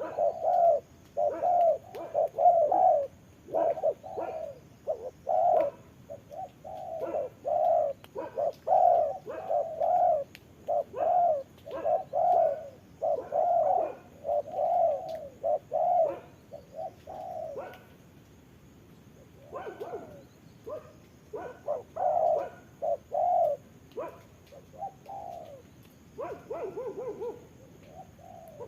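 Spotted doves cooing in quick, repeated phrases, broken by a couple of short pauses.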